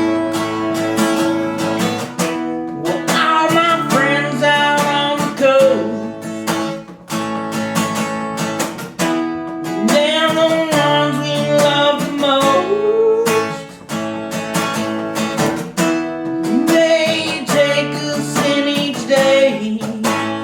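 Acoustic guitar strummed steadily, with a man's voice singing three phrases over it, about three, ten and seventeen seconds in.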